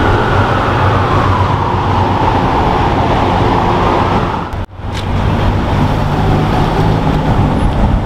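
Ferrari sports car engine running at low revs with a steady low rumble, mixed with street traffic. The sound drops out for an instant about halfway through, then carries on much the same.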